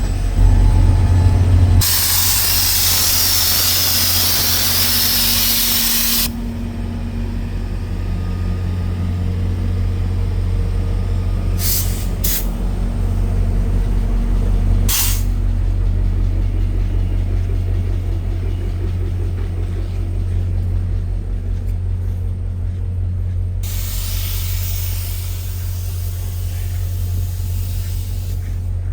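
Diesel-hauled passenger train standing with its locomotive idling in a steady low hum. The air brakes vent in a long loud hiss of about four seconds near the start and hiss again near the end, with a few short sharp clicks in between.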